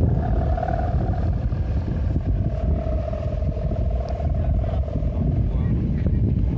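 Strong wind buffeting the microphone in a continuous low rumble, with a steady droning hum running over it.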